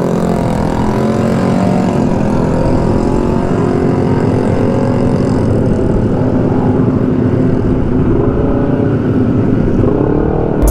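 Motor scooter engine running at speed while riding, its pitch climbing about a second in and again near the end, with wind buffeting the microphone.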